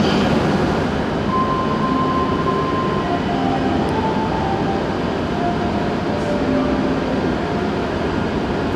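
Steady rumbling hum of a Hokuriku Shinkansen E7/W7-series train standing at a station platform, with a few faint, brief tones.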